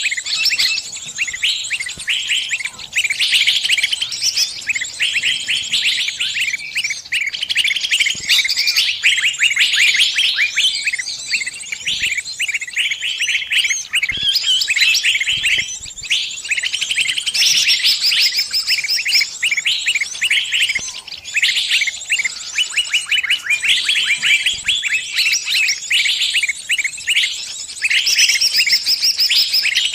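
Small bird's distress calls: rapid, unbroken high-pitched chirping with short pauses, the cries of a trapped bird calling other birds for help.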